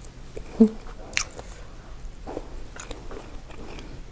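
Close-miked eating of a seafood boil: mouth sounds of biting and chewing with sharp wet clicks and smacks, and a short hummed "mm" of a voice about half a second in.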